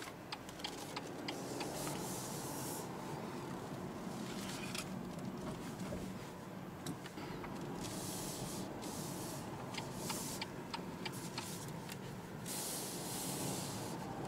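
Cabin sound of a BMW 118i's 1.5-litre three-cylinder turbo petrol engine running steadily at low revs while driving slowly. Tyre and road hiss swells up a few times, with scattered light clicks and ticks throughout.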